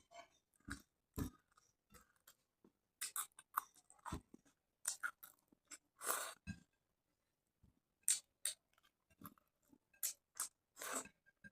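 Close-up chewing of a meal of rice and fish curry: irregular wet smacks, clicks and short crunches of a mouth eating.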